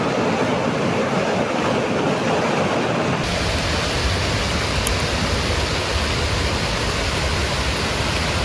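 Fast-moving floodwater rushing in a steady wash of noise. About three seconds in it changes abruptly to a deeper, more rumbling rush.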